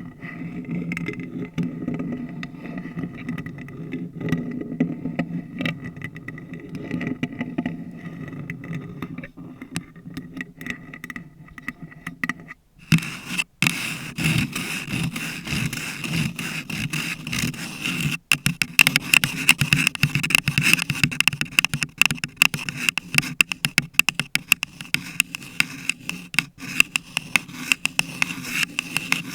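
Long fake nails scratching and tapping on a paper cup and a bare microphone, making dense, close scratchy rustling full of quick clicks. The sound breaks off briefly about 13 seconds in and comes back brighter, with faster, crisper scratching and tapping.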